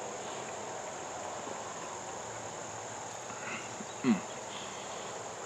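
Steady high-pitched chirring of crickets, with a brief falling vocal sound from a man about four seconds in.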